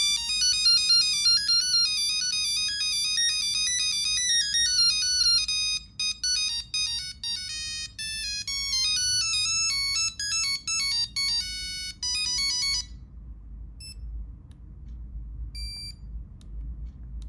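Nokia 3310 playing one of its built-in monophonic ringtone melodies, a quick run of beeping notes that stops about 13 seconds in; two short faint beeps follow.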